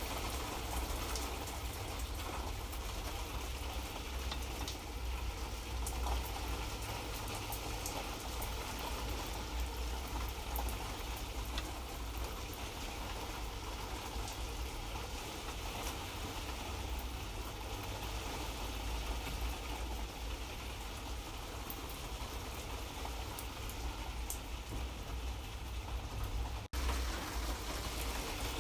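Steady light rain: an even hiss of rainfall with fine scattered drop patter and a low rumble underneath. The sound cuts out for an instant near the end, then goes on as before.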